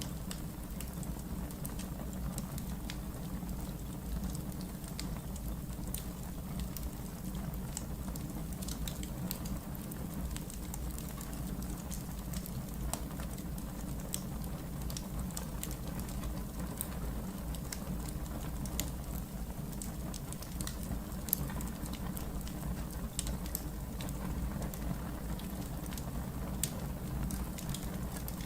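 Wood fire burning in a fireplace, with frequent scattered sharp crackles and pops over a steady low rumble.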